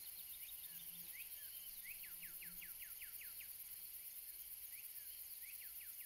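Faint nature ambience with a small bird singing: runs of quick, downward-sweeping chirps, about two seconds in and again near the end, over a steady hiss.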